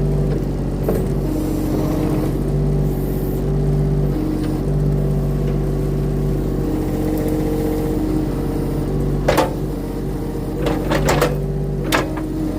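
Engine of a compact earthmoving machine running steadily, its pitch stepping slightly up and down as the hydraulics are worked while it grabs and drags a tree's root ball. A few sharp knocks sound near the end, the loudest one about nine seconds in.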